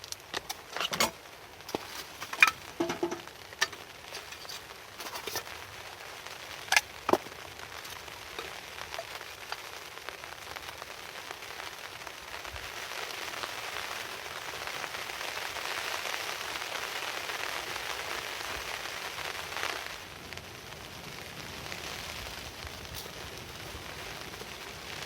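Typhoon rain falling steadily, with a few sharp taps and knocks in the first several seconds. About halfway through the rain hiss swells into a heavier gust for several seconds, then drops back suddenly.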